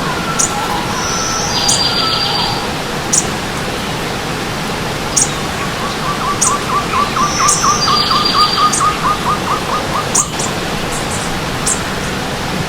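Stream water running steadily under birdsong: sharp high chirps every second or two, two buzzy trilled phrases, and from about six to ten seconds in a fast run of lower repeated notes, about five a second.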